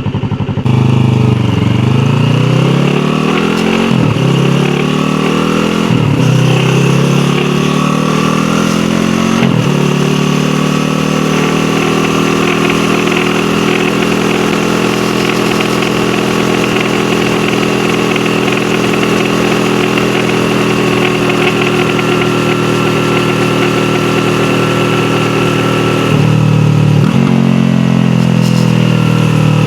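Yamaha YZF-R3's parallel-twin engine on the move, heard from on board: it pulls up through three or four quick upshifts in the first ten seconds, then runs at a steady speed. The engine drops and picks up again near the end, with wind and road noise throughout.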